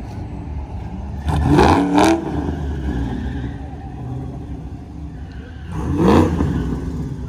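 A car engine revving twice, the pitch climbing each time, about a second and a half in and again around six seconds in, over a steady low engine rumble.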